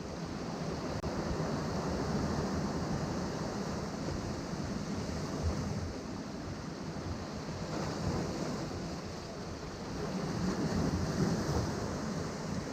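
Ocean waves surging and breaking against rocks in a continuous wash that swells and eases, louder near the end, with some wind buffeting the microphone.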